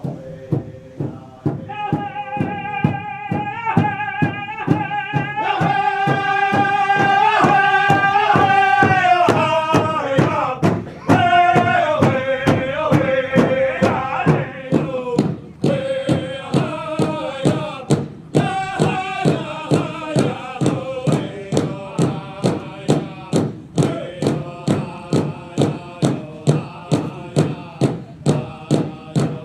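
Pow-wow drum and singers: a steady drumbeat of about two strokes a second under men singing together, with the voices growing fuller about five seconds in and the melody stepping downward.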